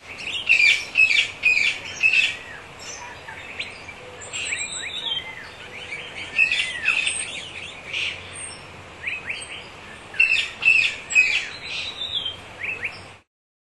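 Birds chirping and calling: many short, quick sweeping notes over a faint steady hiss, cutting off suddenly near the end.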